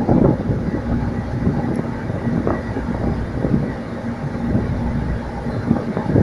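Boat underway: a low, steady rumble with a faint constant hum, and wind buffeting the microphone in irregular thumps.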